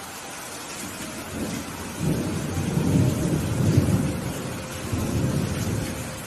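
Thunder rumbling over steady rainfall. The deep rumble builds about a second in, peaks in the middle, swells once more and fades near the end, while the rain hiss carries on throughout.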